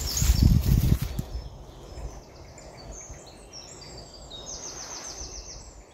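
Woodland birds singing, with chirping phrases and a quick trill of repeated notes near the end. Wind buffets the microphone with a loud low rumble in the first second.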